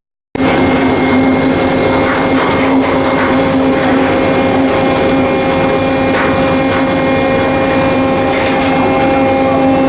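Heavy machinery running steadily, a loud even drone with a constant hum and whine, starting abruptly on a cut.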